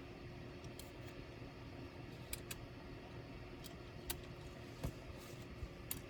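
A few light, sharp clicks and ticks scattered over several seconds, from small tools and parts being handled while a laptop is taken apart, over a faint steady hum.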